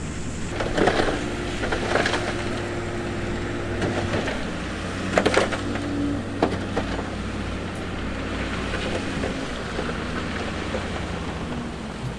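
Bulldozer's diesel engine running steadily under load, with loose rock crunching and clattering several times, loudest about five seconds in.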